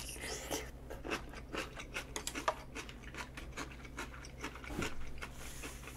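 Close-up eating sounds: a string of small, irregular mouth clicks and smacks from chewing a spicy octopus, intestine and shrimp stir-fry with rice, a few each second.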